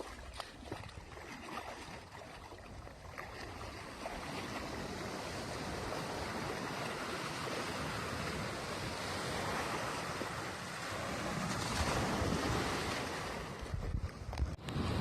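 Sea surf washing onto a beach, mixed with wind buffeting the microphone; the rush of noise grows louder after about four seconds.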